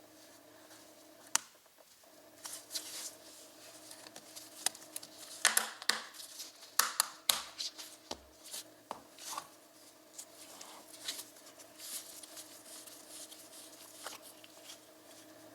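Irregular clicks, taps and short rustles of small objects being handled by hand, busiest in the middle, over a faint steady hum.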